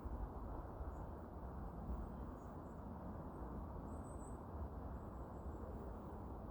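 Steady low outdoor background noise with a few faint, very high-pitched chirps from birds, the clearest about four seconds in.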